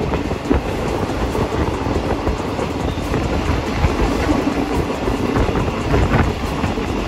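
Passenger train running along the line, heard from inside a third-class carriage: a steady rumble of wheels on rail with irregular clatter and knocks.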